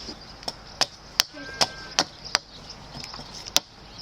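Digging tool chopping into soil: a quick run of sharp, separate strikes, about two or three a second, as a hole is dug out for a post.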